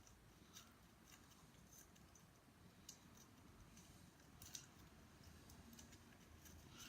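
Faint clicks and taps of small laser-cut plywood model parts being handled and fitted together, a few scattered clicks over near silence.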